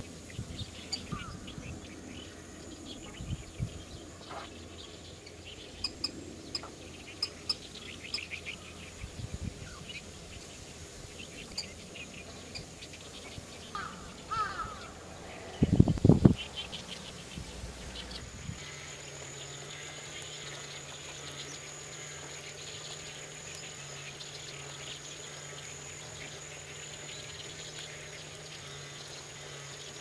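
Scattered short bird chirps and ticks over a marsh background, with a loud low thump about 16 seconds in. From about 18 seconds a steady high tone and a low hum run on.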